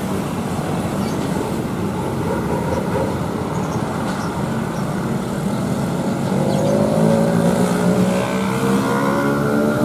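Motor vehicle engine running amid road noise, speeding up from about six seconds in, its pitch rising steadily as it accelerates.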